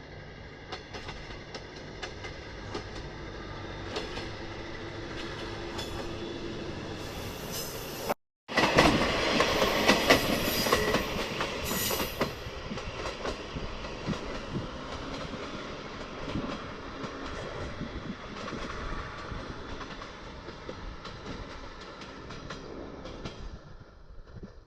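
Tarumi Railway Haimo 330 diesel railcar running on the line, with repeated clicks from the wheels over the rails. About eight seconds in the sound cuts out briefly, then comes back louder for a few seconds before settling, and it fades near the end.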